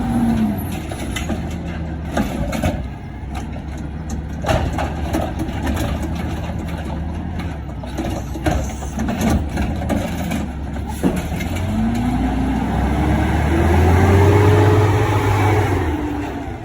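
Garbage truck engine dropping from a rev at the start, running at a low steady speed with a few sharp knocks, then revving up about twelve seconds in, loudest for a few seconds, and falling back near the end.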